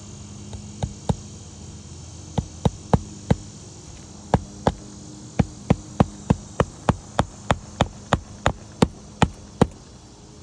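Hammer blows on an asphalt shingle roof: a few scattered strikes, then a steady run of about three blows a second.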